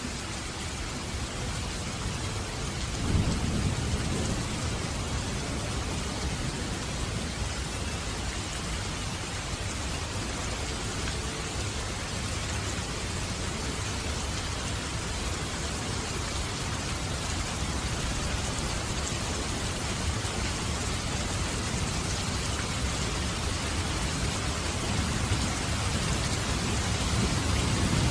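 Steady heavy rain with rumbles of thunder: one low rumble swells about three seconds in, and another builds near the end.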